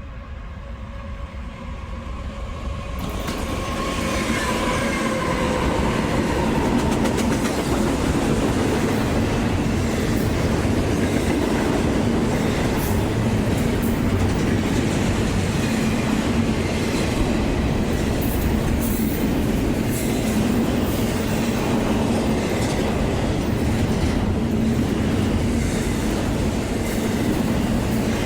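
A train passing close by, growing louder over the first few seconds, then a steady rumble of railcars with wheels clicking over the rail joints.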